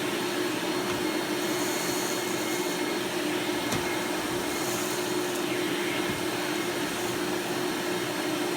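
Eureka 'The Boss' Mighty Mite II, a 7-amp canister vacuum, running steadily: a motor rush with a strong, steady low whine.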